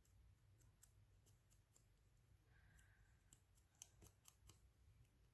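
Faint, scattered snips of scissors cutting paper in an otherwise near-silent room, with a brief faint tone a bit over two seconds in.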